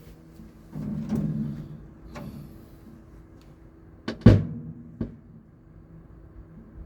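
A few separate strikes on a drum kit, the loudest about four seconds in, each with a short low ring, over a steady low hum.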